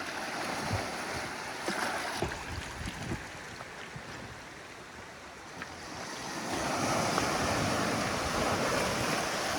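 Waves washing onto a shore, with wind on the microphone; the wash swells louder about six seconds in. A few low knocks come in the first three seconds.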